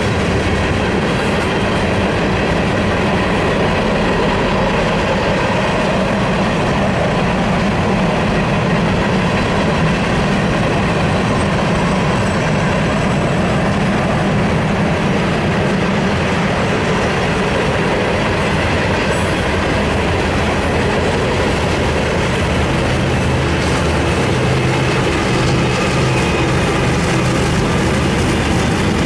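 Freight train cars rolling past, their steel wheels running steadily on the rails.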